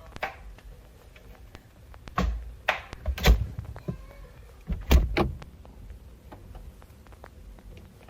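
Refrigerator door being opened and shut, with several thuds: a cluster of knocks between about two and three and a half seconds in, the loudest among them, and a second pair about five seconds in.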